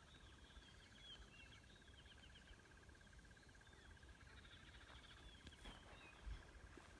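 Faint bird calls: short chirps scattered through, over a steady, rapid high trill that does not change, with a low rumble underneath.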